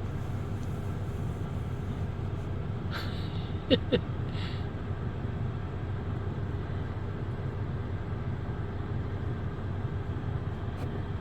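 Steady low hum of a car heard from inside the cabin, idling or creeping along slowly. A little under four seconds in come two short, sharp squeaks, each sliding down in pitch.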